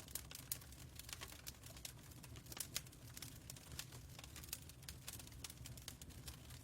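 Wood fire crackling: irregular small pops and snaps, several a second, over a steady low rumble.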